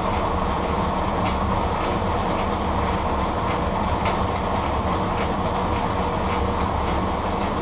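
W.F. & J. Barnes No. 13 lathe running under power through a three-speed car transmission, a steady low rumble with faint irregular ticking, while it takes a hand-fed test cut. There is little gear whine from the transmission; the machine vibrates, which the owner puts down to a twisted drive belt and a wobbling pulley.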